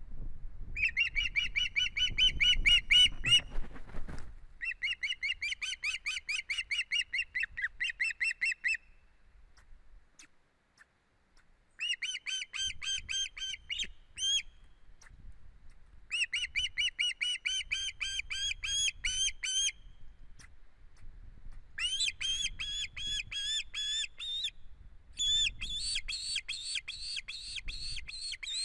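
Osprey calling in six runs of fast, high whistled chirps, each run lasting a few seconds with short pauses between. A low rumble sits under the first run.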